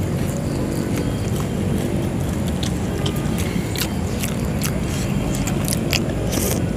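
Close-miked chewing, smacking and mouth clicks of people eating meatballs, with many short clicks throughout, over a steady low rumble.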